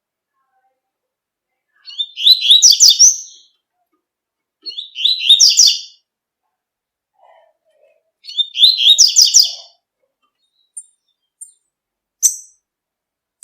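Double-collared seedeater (coleiro) singing the 'tui-tui' song type: three short, fast phrases of rapid high notes a few seconds apart, then a few single short chips near the end.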